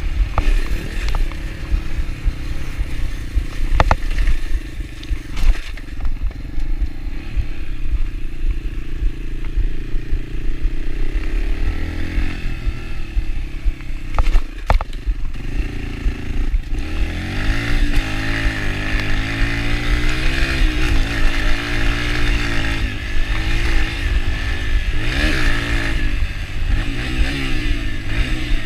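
Yamaha TT-R125 dirt bike's single-cylinder four-stroke engine running while the bike is ridden, its pitch rising and falling with the throttle, over a rumble of wind and rough ground. A few sharp knocks come through, around four seconds in and again near the middle.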